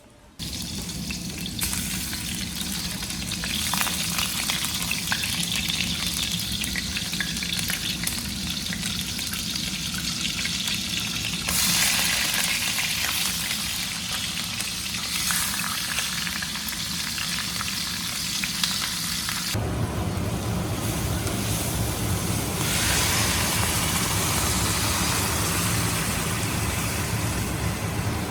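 Food frying in hot oil: a steady sizzle that changes abruptly a few times, about 12 and 20 seconds in, with a deeper rumble underneath from about 20 seconds in.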